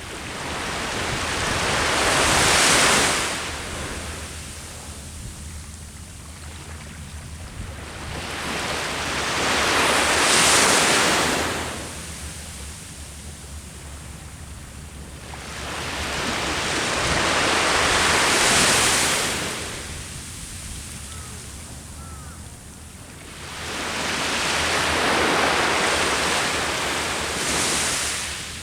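Sea waves breaking and washing up the shore, four surges about eight seconds apart, with a low rumble of wind on the microphone underneath.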